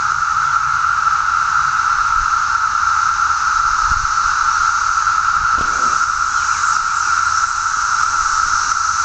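Dense chorus of many cicadas buzzing all around, blending into one loud, steady high drone that never breaks.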